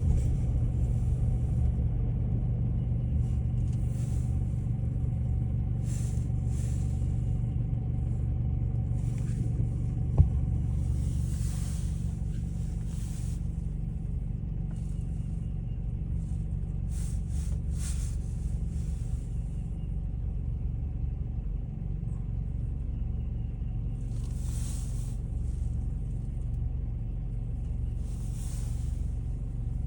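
A steady low mechanical rumble with a constant hum, broken now and then by short soft hisses and by one sharp click about ten seconds in.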